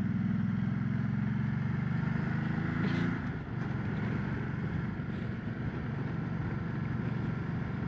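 Ducati Multistrada 1200's L-twin engine running steadily while riding. About three seconds in the engine note fades, leaving a steady rush of noise.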